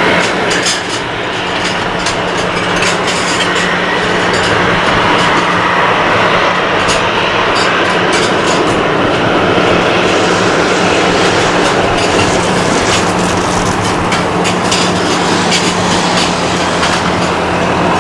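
Boeing 737-800's CFM56 turbofan jet engines running loud and steady as the airliner passes close by, a continuous roar with a low steady hum under it.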